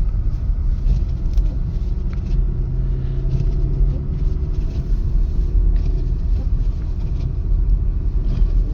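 Steady low rumble of a 2025 Mercedes-Benz GLC 300 driving slowly, at about 20 mph, on a snow-covered road: tyre and road noise with the running engine. A steady low hum rises out of it for a second or so about three seconds in.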